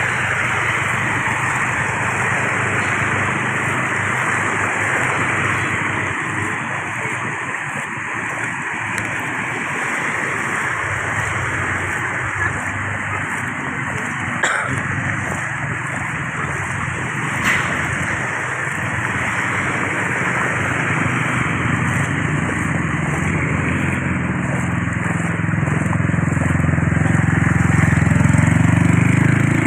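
Vehicle traffic on a flooded street: a steady wash of splashing water and running engines, with one engine growing louder near the end.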